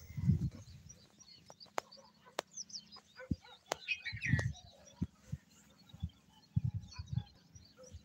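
Small birds chirping and twittering, busiest around the middle, over scattered low thumps and a few sharp clicks.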